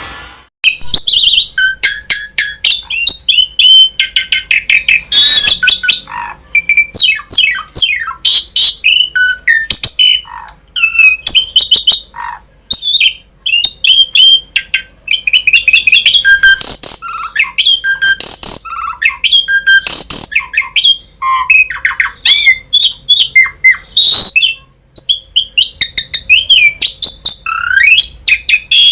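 Asian pied starling (jalak suren) singing persistently: a long, varied run of whistles, chatters, squawks and clicky notes in quick succession, many sliding up or down in pitch.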